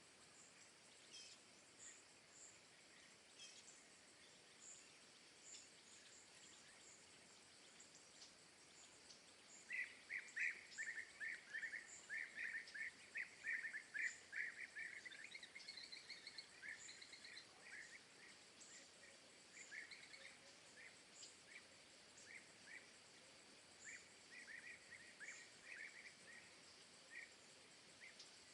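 Faint birdsong over a steady hiss: thin high chirps throughout, and about a third of the way in a bird starts a rapid run of chirps, strongest for several seconds and then going on in shorter bursts.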